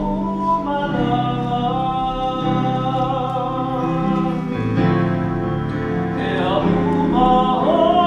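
A small group of young women and a young man singing a slow song together, holding long notes, over an instrumental accompaniment.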